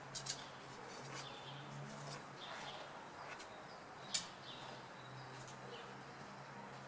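Small birds chirping: short sharp calls, a quick pair just after the start and a louder single one about four seconds in, over a faint steady low hum of town background.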